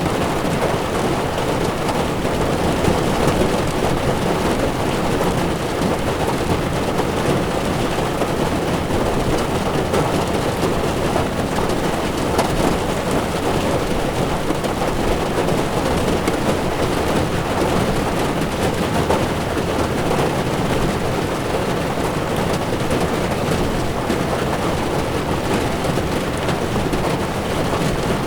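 Heavy rain falling on a car's windshield and roof, heard inside the moving car, over the hiss of tyres on a wet road. Dense and steady, with no breaks.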